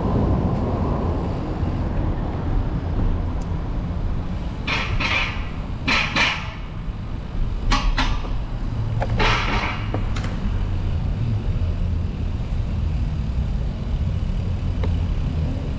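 Steady low rumble of road traffic and wind while cycling, with four short hissing noises between about five and ten seconds in.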